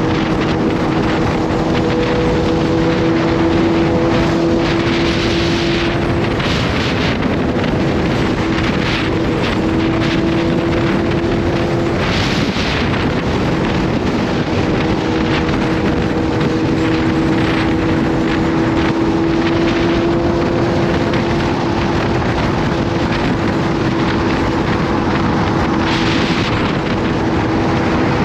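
Kawasaki Z H2's supercharged inline-four engine running at a steady cruise, a constant engine note under heavy wind noise on the microphone.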